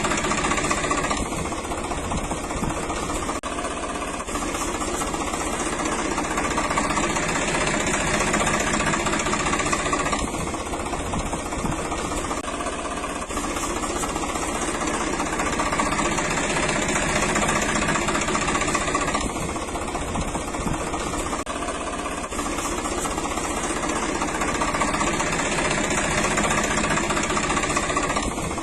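Engine idling steadily, its sound swelling and easing in a slow cycle about every nine seconds.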